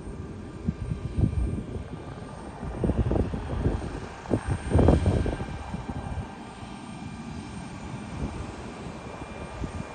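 Distant jet airliner engines running with a steady hum and faint whine, while gusty wind buffets the microphone in irregular low rumbles, the strongest gust about five seconds in.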